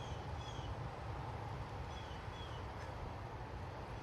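Gusty wind rumbling on the microphone and rustling tree leaves, with a bird giving short paired calls about every two seconds.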